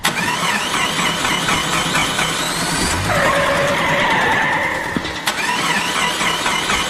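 Engine start-up and running sound with rising whines, beginning suddenly and starting over about five seconds in, as if the same clip plays again.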